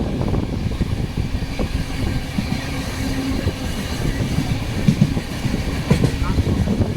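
Indian Railways train running on the track: a steady low rumble with a rapid, irregular rattle of knocks from the wheels and carriages.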